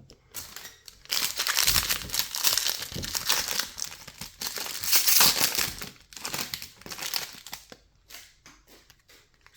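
Crinkly foil wrapper of a Topps baseball card pack crackling as it is handled and torn open, loudest through the first half, then tailing off into lighter rustling.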